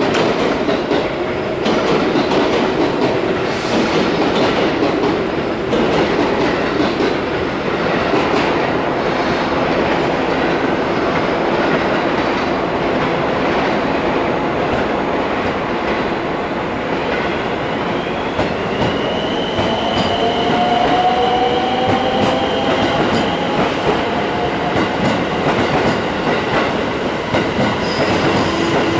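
Electric train moving past along the platform, its wheels rolling and clacking over the rail joints. About two-thirds of the way through, a high motor whine comes in, rises a little, then holds steady.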